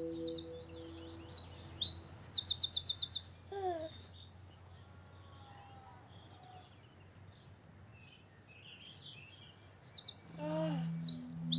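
Birds chirping and trilling, with a rapid trill about two and a half seconds in. The birdsong thins to faint chirps from about four to nine seconds and grows again near the end, when a soft sustained tune comes back in.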